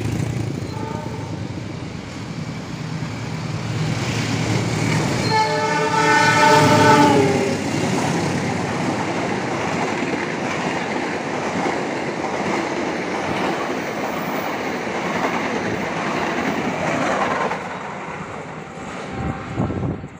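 Argo Parahyangan passenger train passing at speed behind a diesel locomotive. The horn sounds for about two seconds some five seconds in, then the coaches rush by with steady wheel-and-rail noise for about ten seconds, fading away near the end.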